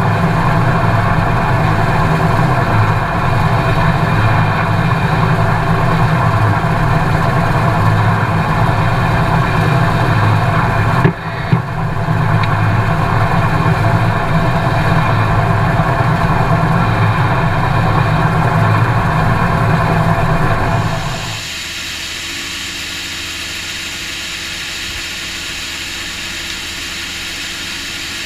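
New Holland TX5090 combine harvester running steadily under load, its engine and threshing machinery giving a loud, even rumble, with a brief knock about eleven seconds in. About twenty-one seconds in the sound changes abruptly: the low rumble drops away, leaving a quieter, steady hiss.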